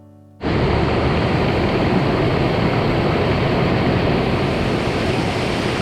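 The last of an acoustic guitar track fades out, then steady rushing of a waterfall cuts in about half a second in.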